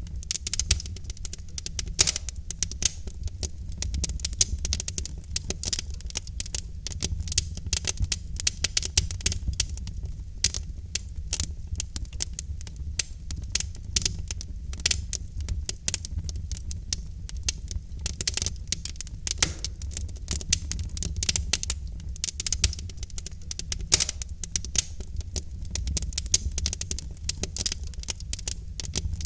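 Burning logs in a fireplace crackling, with dense, irregular snaps and pops over a steady low rumble of the fire.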